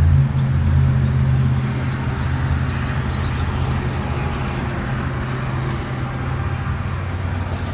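A steady low engine-like hum under an even rushing noise, easing off a little in the second half.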